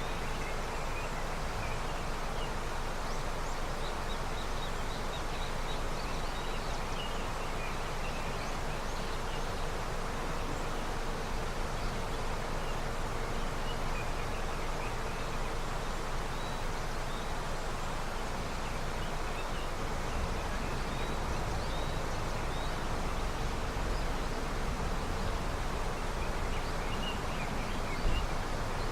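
River running steadily with snowmelt, an even rush of water, with faint scattered high chirps over it. A brief low bump comes near the end.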